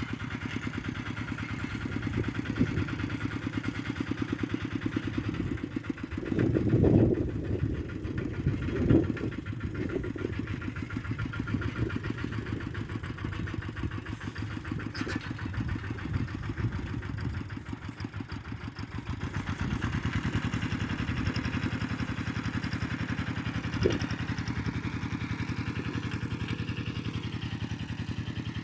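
Engine of a ploughing machine running steadily with a fast even pulse. There are louder low rumbles about seven and nine seconds in, and the engine note dips briefly around eighteen seconds in, then picks back up.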